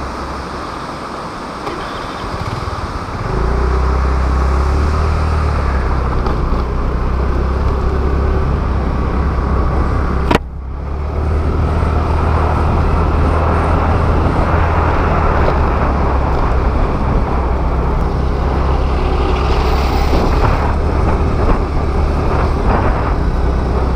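Riding noise from a Honda Activa scooter under way: steady wind rush and low rumble with its single-cylinder four-stroke engine running, building up about three seconds in as it gets moving. A single sharp click just past ten seconds, with a brief drop in the sound.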